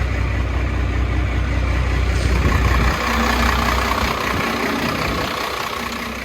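A vehicle engine idling with a steady low rumble that falls away about three seconds in, leaving a steady hiss.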